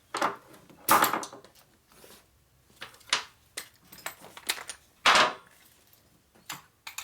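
Irregular metal clanks and clatter of hand tools and sockets being handled on a motorcycle clutch, with the loudest knocks about a second in and about five seconds in.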